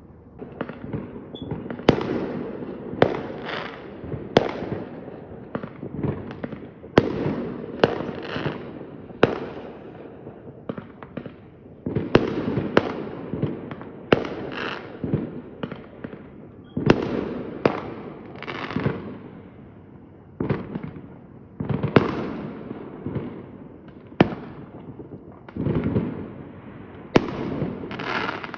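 Fireworks going off in a steady barrage: sharp bangs about once a second, each followed by a short crackling tail.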